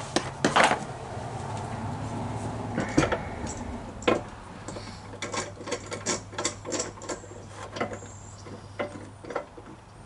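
Hand tools working a stuck oil drain plug on the mower's engine: a run of sharp metal clicks and knocks, several a second in the middle stretch, typical of a socket wrench being worked back and forth. A steady low hum runs underneath.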